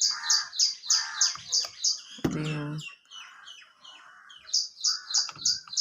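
A bird chirping in quick, high, repeated notes, about three a second, in two runs with a pause in the middle.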